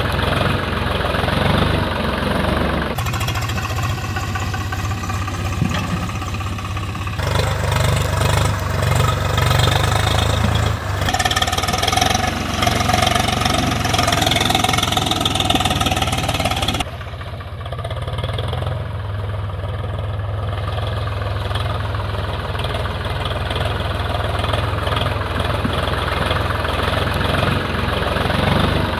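Swaraj 735 FE tractor's three-cylinder diesel engine running steadily, with the sound changing abruptly several times.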